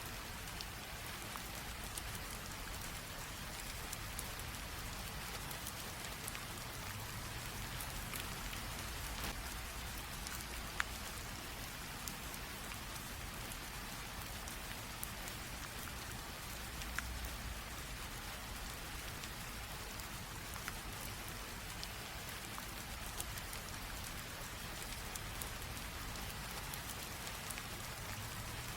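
Light rain drizzle falling steadily, a soft even hiss with scattered individual drops ticking through it.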